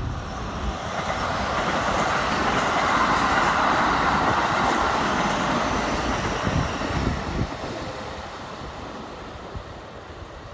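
Keikyu 1000 series six-car electric train passing close by, its wheels running on the rails in a steady rumble that swells about three to five seconds in and then fades as the train moves away, with a few low thuds past the middle.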